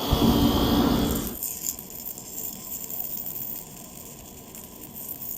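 Arc welding on steel: the arc buzzes and crackles, loudest for about the first second, then goes on as a quieter, steadier crackle.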